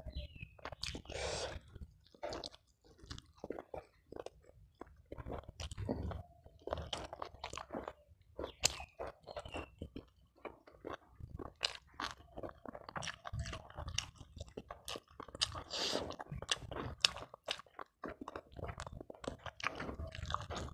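Close-up chewing and crunching of food, with many irregular crisp clicks and short crunches.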